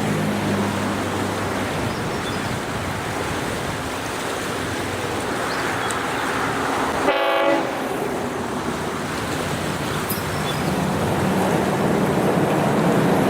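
Spirit of Queensland diesel multiple unit running along the track, its diesel engines humming under steady running noise, with one short horn blast about seven seconds in. The engine sound grows louder near the end as the train draws closer.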